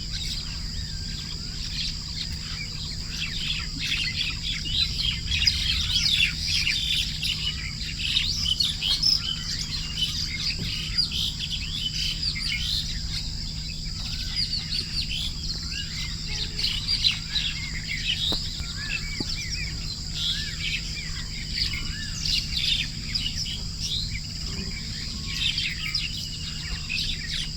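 A chorus of small songbirds chirping and singing continuously, many quick overlapping calls and trills, over a steady high-pitched tone.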